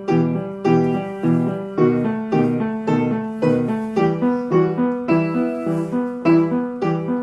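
Piano playing a ballet-class accompaniment: evenly accented struck chords in a steady beat, a little under two a second.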